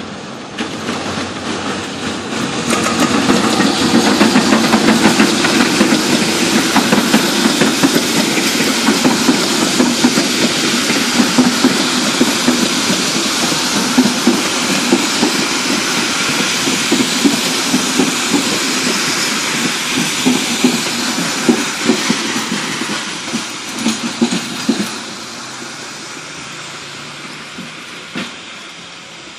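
A passenger train hauled by a CC 201 diesel-electric locomotive passing close by: a steady rushing rumble with the wheels clattering over the rail joints. It fades as the last coach moves away near the end.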